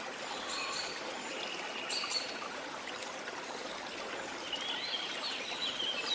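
Steady rush of a waterfall with tropical birds calling over it; a quick run of chirps begins in the last second or so.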